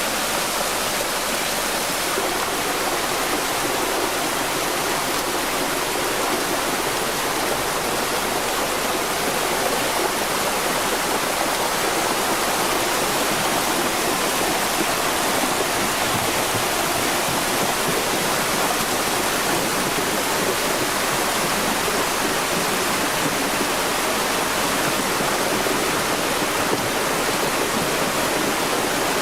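Flash-flood torrent of rainwater rushing steadily.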